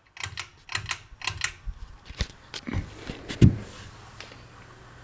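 A string of irregular sharp clicks and taps, then a steady low electrical hum from a Harbor Breeze Lakeside II ceiling fan running on medium speed.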